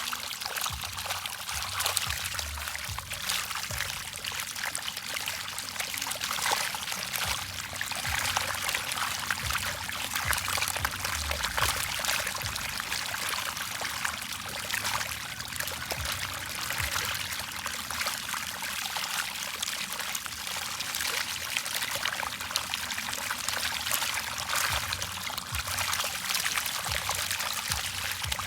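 Water splashing and trickling steadily, with many small sharp splashes.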